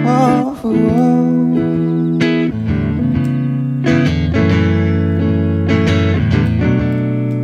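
Guitar playing slow, sustained chords, struck again every second or two, in an instrumental gap of a slow ballad.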